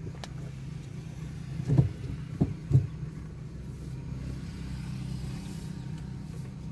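Steady low hum of a Maruti Suzuki Baleno's petrol engine running at low speed, heard from inside the cabin, with three short thuds about two seconds in.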